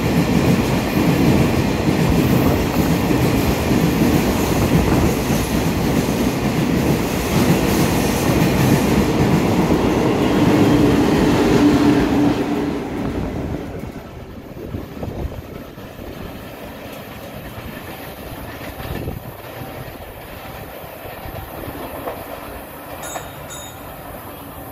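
Freight train of tank wagons passing at speed, its wheels clacking steadily over the rail joints. About twelve seconds in, the trailing GEA diesel-electric locomotive goes by with its engine droning. The noise then dies away by about fourteen seconds, leaving faint background noise.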